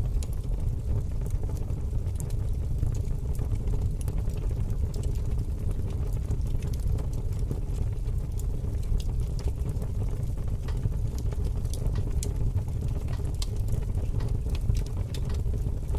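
Fire burning with a steady low rush of flames and many small scattered crackles and pops.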